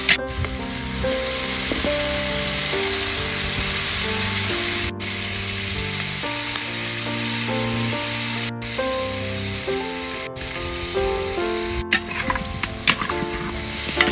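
Pork leg pieces and corn frying in a hot iron wok, a steady sizzle, with background music of held notes playing underneath. The sound drops out for an instant four or five times.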